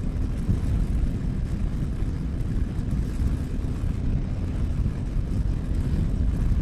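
Yamaha Ténéré 700's parallel-twin engine running at a steady cruise, with heavy wind rush on the microphone; a steady low drone that holds even throughout.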